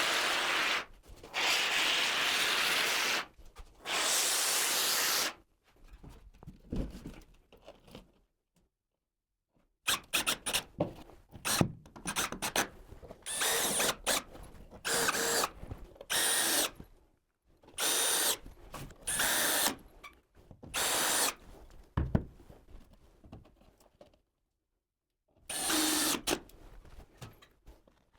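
Handheld power drill running in a string of short bursts of one to two seconds each, stopping and starting with brief pauses between them.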